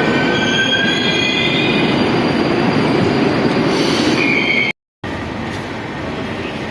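Moscow metro train running, its wheels squealing on the rails with several high, drawn-out tones over the steady rumble. About three-quarters of the way in the sound cuts off abruptly, then a quieter steady hum follows.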